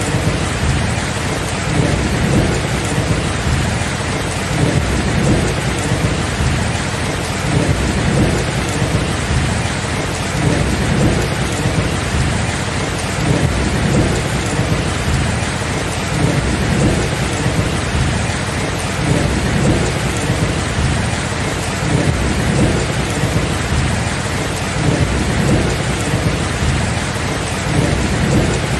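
Steady heavy rain with continuous low thunder rumbling, swelling and fading every second or two.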